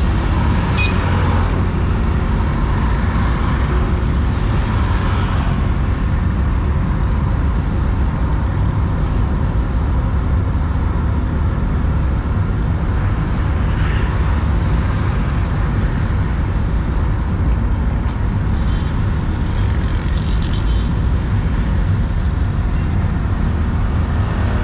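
Steady low road rumble of a car driving, with tyre and engine noise, and a few brief swells of higher noise about 1, 5, 15 and 20 seconds in.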